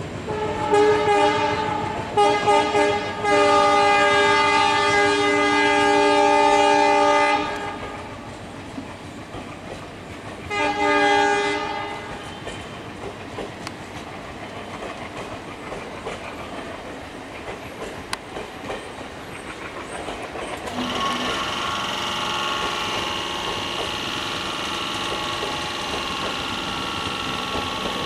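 Train horn sounding as a long chord-like blast of about seven seconds, then a shorter blast a few seconds later, over the rumble and clickety-clack of passenger coaches rolling past. A steady whining hum comes in near the end.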